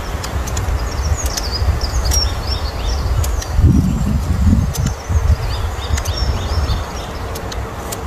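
Long-tailed tits giving many thin, high, short chirps, each note falling in pitch, over a steady low rumble that swells about halfway through.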